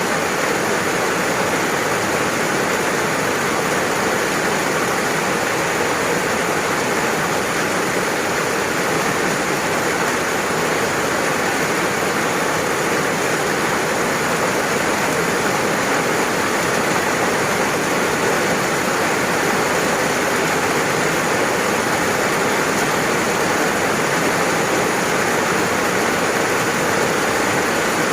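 Steady rain falling, an even unbroken hiss that does not change.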